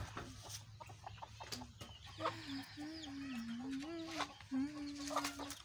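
Domestic hens clucking, with one long, slightly wavering drawn-out call for about three seconds. A few light knocks come before it.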